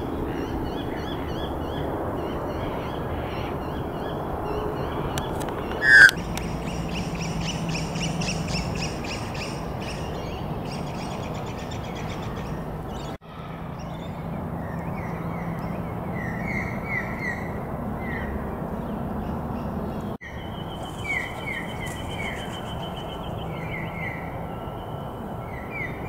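Several birds calling and chirping in short repeated phrases over steady background noise, with one brief, much louder sound about six seconds in.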